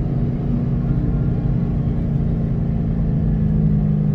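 2006 Ford Mustang GT's 4.6-litre V8 droning steadily while cruising, heard from inside the cabin over low road rumble. Its pitch sags slightly near the end.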